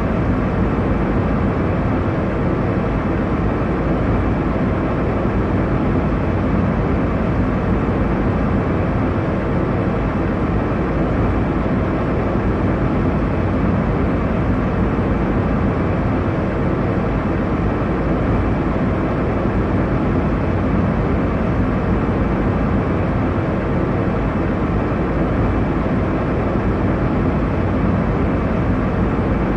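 Airliner cabin noise in flight: a steady, even rumble of engine and airflow noise, heaviest in the low end, with no changes or events.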